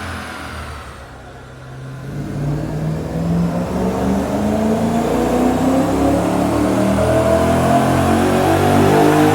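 BMW S65 V8 of an E92 M3 with an Akrapovic Evolution titanium exhaust on a chassis dyno: the revs fall away and the sound drops in the first second or so, then a new pull starts and the engine note climbs steadily in pitch and gets louder as it revs up under load.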